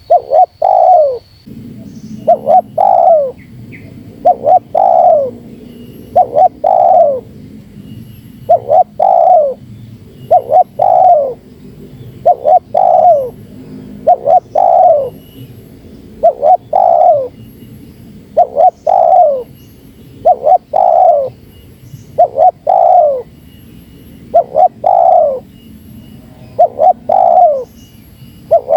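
Spotted dove (terkukur) cooing in a tight, rapid series: a short group of two or three low coos about every two seconds, each note dropping in pitch. This is the close-set 'pressing' call used to provoke rival wild spotted doves.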